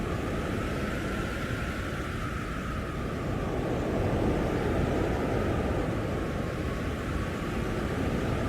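Blizzard wind blowing hard and steadily, a dense rushing noise with a faint howling tone that wavers slowly in pitch. The gust strengthens slightly about halfway through.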